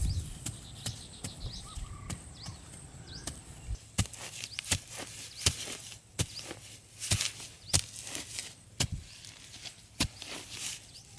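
An irregular series of sharp knocks or taps, several a second at times, thickening after the first few seconds, over faint bird chirps.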